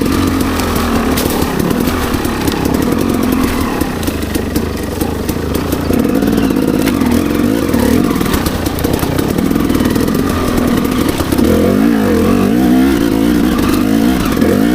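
Dirt bike engine running under constantly changing throttle as it is ridden over rough trail, its pitch wavering up and down. The revs rise and fall quickly several times about twelve seconds in, with light knocks and rattles from the bike.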